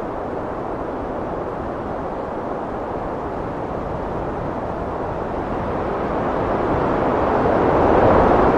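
Heavy wind blowing in a steady rush that swells into a stronger gust near the end.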